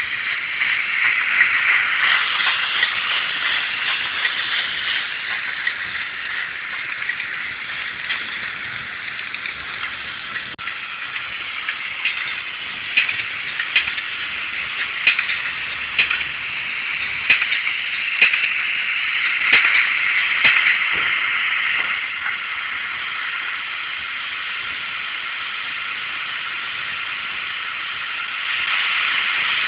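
Roco HO-scale Ce 6/8 II 'Crocodile' model electric locomotive running, its LokSound 3.5 sound decoder playing locomotive running sounds through a small onboard speaker, thin and without bass. Scattered sharp clicks come through the middle, and the sound steps up louder near the end.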